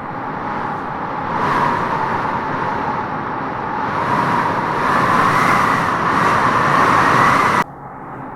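Howling wind gusting through tropical trees. The whistling howl swells and rises a little in pitch over several seconds, then drops off suddenly near the end.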